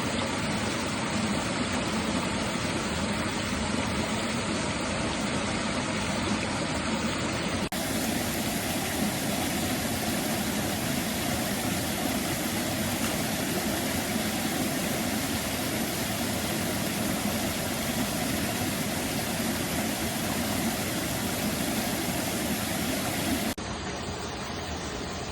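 Mountain stream rushing steadily, with two abrupt cuts between recordings, about eight seconds in and near the end, where the character of the rush changes.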